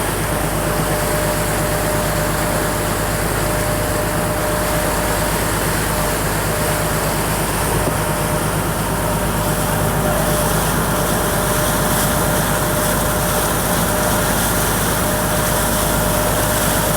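Motorboat engine running steadily underway, a constant low hum with a faint steady tone above it.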